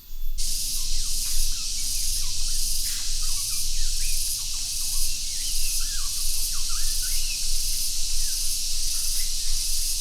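Tropical forest ambience: a loud, shrill insect chorus pulsing slowly and steadily, with many birds whistling short calls that glide up and down.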